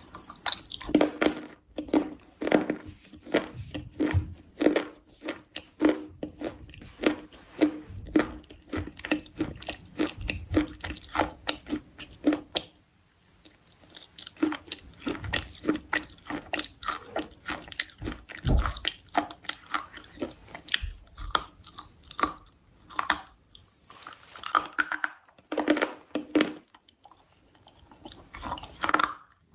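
A person chewing something crunchy close to the microphone, with quick, repeated crunches and a short pause about halfway through.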